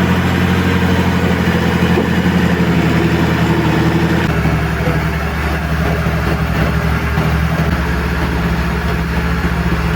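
Heavy diesel engine running steadily, its note dropping slightly about four seconds in.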